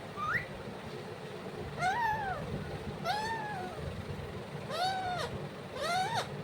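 Pet parrot mimicking a cat's meow: five meow-like calls, each rising then falling in pitch, a second or so apart.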